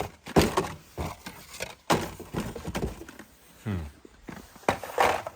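Die-cast toy cars clacking against one another and a plastic tub as they are rummaged through and picked out: a series of irregular knocks and rattles.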